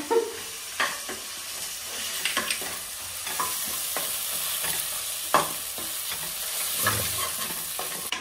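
Onions, green chillies and ginger-garlic paste sizzling in ghee in an aluminium pressure cooker: a steady frying hiss. The stirring utensil scrapes and knocks against the pot at irregular moments, every second or so.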